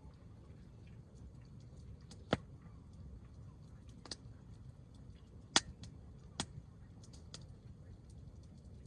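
Hardwood campfire crackling: a few sharp, irregular pops from the burning logs, the loudest about two, five and a half and six and a half seconds in, over faint small ticks and a low steady rumble.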